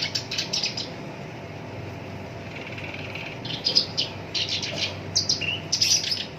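Black-browed reed warbler singing: two bursts of rapid, rough-voiced notes, separated by a pause of a couple of seconds.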